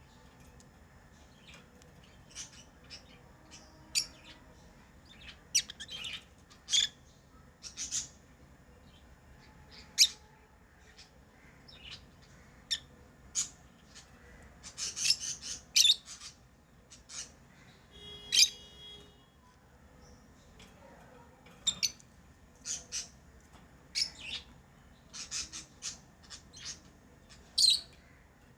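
Pet lovebirds chirping: short, sharp, high calls at irregular intervals, with a quicker run of calls about fifteen seconds in and a harsher single squawk a few seconds later.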